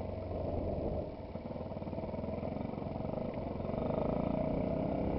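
Yamaha WR supermoto's engine running at low speed; the engine note drops about a second in, then carries on with an even low throb that picks up slightly near the end.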